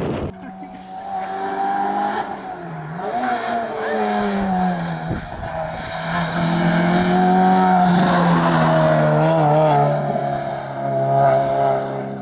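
Rally car engine running at high revs on a hillclimb stage, its pitch dipping briefly about three seconds in and settling lower near the end.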